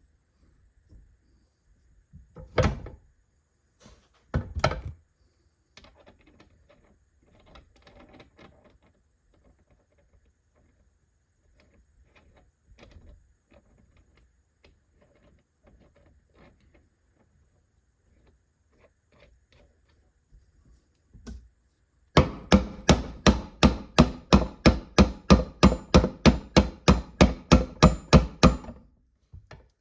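Hammer blows on metal parts of a manual transmission's gear stack. Two heavy knocks, then light clatter of parts, then a fast, even run of about two dozen ringing strikes, about four a second, near the end. The gears are not coming free; they will need to be pressed off.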